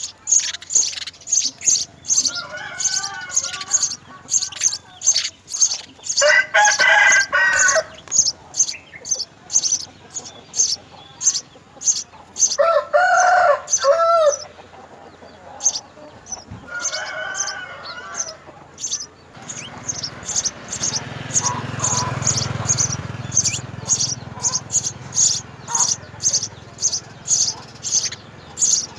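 House sparrows chirping: short, high chirps repeated steadily about twice a second, with a short break near the middle. Four times, a longer and louder call with a stack of overtones rises over them for a second or two.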